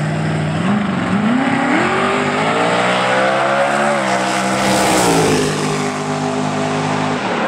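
Car engine running steadily, then revving: its pitch climbs over about three seconds and falls back to a steady low speed before it cuts off near the end.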